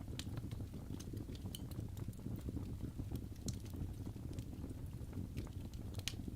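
Fireplace fire crackling, with irregular small pops and snaps over a steady low rumble.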